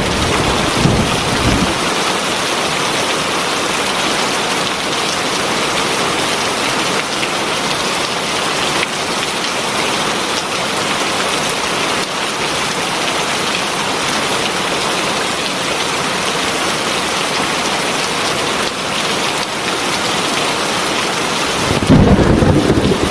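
Heavy rain falling in a steady, dense hiss. A low rumble sits under it in the first second or so and swells again near the end.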